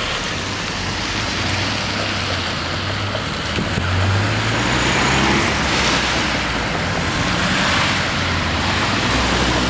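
Road traffic at a level crossing: car engines running and vehicles driving over the road. The noise swells a little about halfway through.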